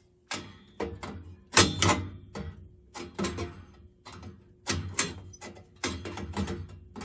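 A series of sharp knocks and clanks, roughly one or two a second, over a faint steady hum.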